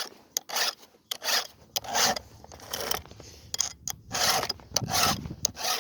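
Round file rasping across a chainsaw chain's cutter teeth by hand, in short repeated strokes about two a second, sharpening the teeth and scraping dirt out of them.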